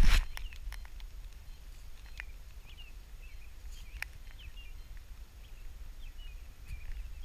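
Quiet open-air park ambience: faint, scattered short bird chirps over a low background rumble, with a couple of small clicks.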